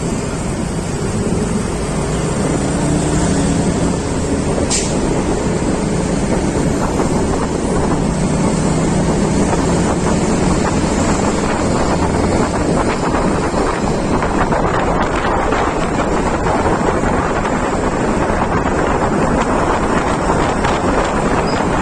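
Steady, loud wind rushing over the microphone of a moving vehicle, with a low engine hum beneath it.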